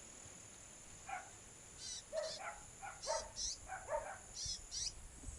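A small songbird calling in a quick string of short notes, some low and some high, sweeping chirps. The notes start about a second in. A steady high insect drone runs underneath.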